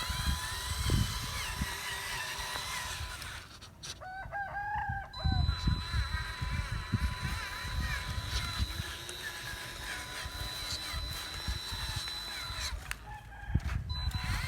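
A rooster crows once about four seconds in, lasting about a second and a half. Under it runs a steady high whine, with low rumbles coming and going.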